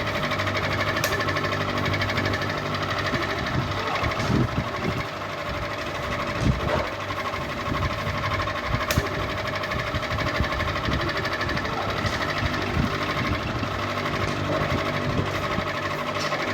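Electric ceiling fan running steadily, its motor giving a continuous hum and whirr, with a couple of faint clicks.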